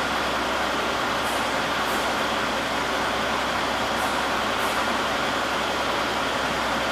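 CNC sheet-metal laser cutting machine running with a steady rushing noise, joined by a few brief, faint high hisses.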